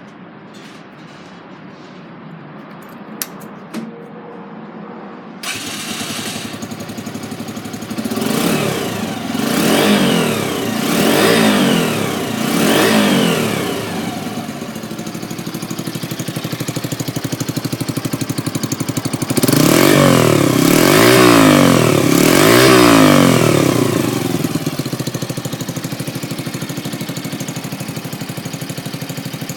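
Yamaha YB125SP's single-cylinder four-stroke engine, breathing through a Supertrapp aftermarket muffler. After a couple of clicks, it starts about five seconds in and settles to idle. It is blipped up and back down four times, idles, then is revved three more times before dropping back to idle.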